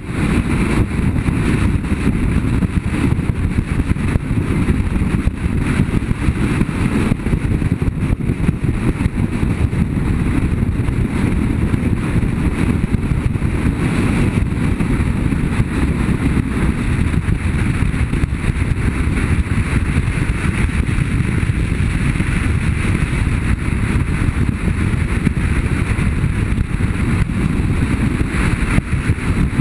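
Onboard sound of a BMW F800GS parallel-twin motorcycle riding steadily, its engine running under a heavy rush of wind on the microphone.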